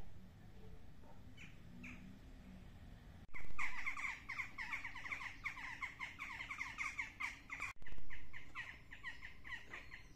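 A songbird singing: a few scattered chirps, then a fast run of short, quickly repeated notes lasting about four seconds, which goes on more faintly near the end.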